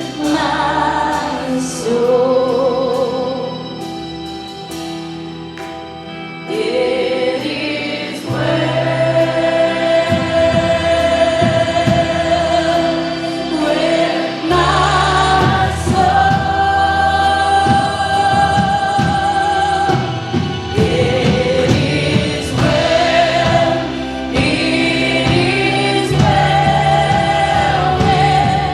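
Church worship band and singers performing a gospel-style praise song. It starts softer and swells as bass and drums come in about eight seconds in.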